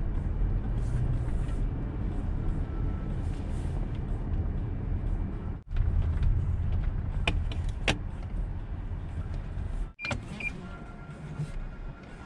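Steady low road rumble inside a moving car, a Toyota Highlander Hybrid, with a few light clicks about two thirds of the way in. The sound drops out briefly twice.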